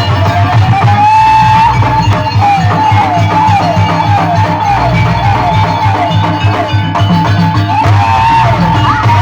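Jaranan music: a Javanese ensemble with drums and percussion keeps a steady beat under a high melody line that slides downward over and over, about twice a second.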